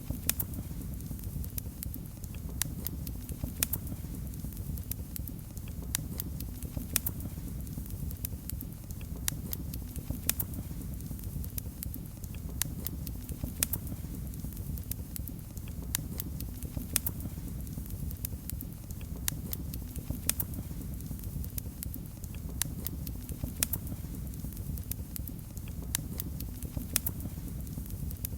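Wood fire in a fireplace crackling, with frequent sharp irregular pops and snaps over a steady low rumble of the flames.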